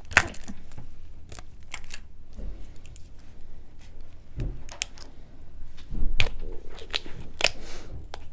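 Handling noises on a table: scattered clicks and taps with rustling and crinkling, as pineapple, a paper cup and small plastic items are handled, a little louder about six seconds in.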